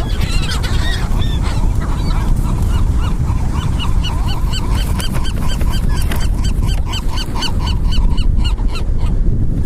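Gulls calling in a flock, short squawks coming thick and fast from about four seconds in and stopping shortly before the end, over steady wind and surf.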